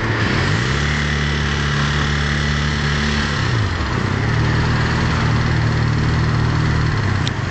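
Vehicle engine running in traffic: its pitch rises about half a second in, holds steady, falls away about three and a half seconds in, then settles at a steady level again.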